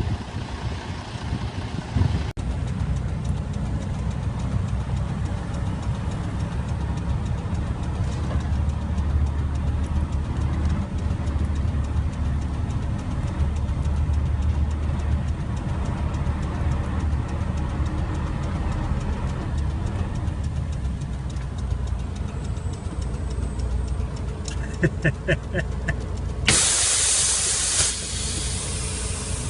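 Semi truck's engine running with a steady low drone heard from inside the cab while driving. Near the end there are a few quick clicks, then a loud hiss of air lasting about a second and a half, typical of the truck's air brakes.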